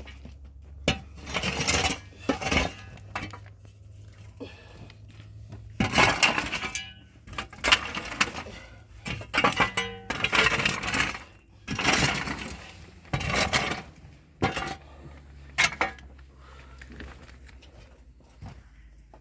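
Hard objects clinking and clattering in an irregular string of knocks and rattles, which thin out after about sixteen seconds.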